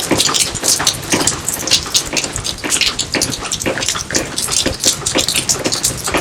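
Rain falling steadily: a dense, irregular patter of drops and splashes.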